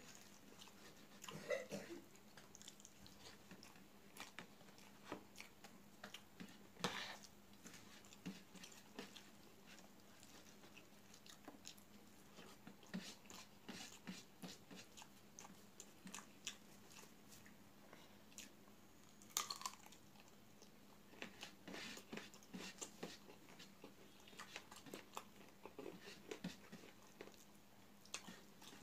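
Faint close-up eating sounds of a person eating rice with the hand: chewing and wet mouth clicks with scattered soft taps, a couple of them louder, over a faint steady hum.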